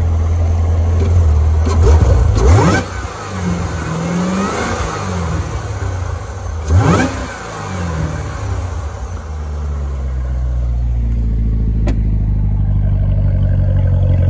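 2015 Chevrolet Corvette Z06's LT4 supercharged 6.2-litre V8 idling, then revved quickly twice, at about two and seven seconds in, each rev rising sharply and falling back. It settles back to a steady idle near the end.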